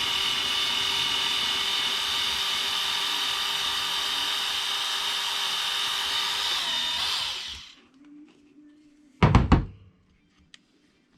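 A small electric motor running steadily at one speed, with a high whine, for about seven seconds, then winding down. A loud double knock follows near the end.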